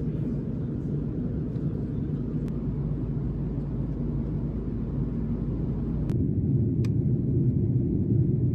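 Steady low rumble, with a sharp click about six seconds in, after which the rumble grows a little louder, and a second click shortly after.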